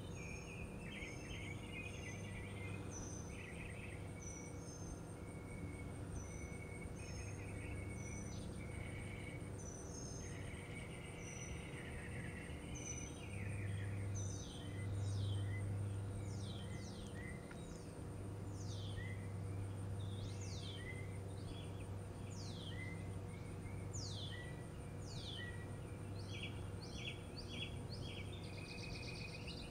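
Backyard birds singing: many short chirps and, from about halfway, a run of quick downward-sweeping whistles. Underneath is a steady low hum that swells briefly near the middle, and a thin continuous high whine.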